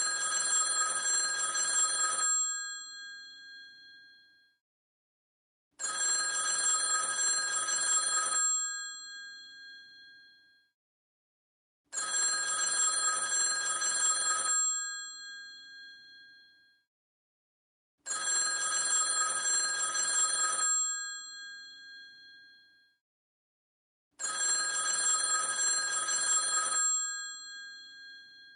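An old telephone's bell ringing: five rings about six seconds apart, each about two seconds of rapid bell ringing that then fades out.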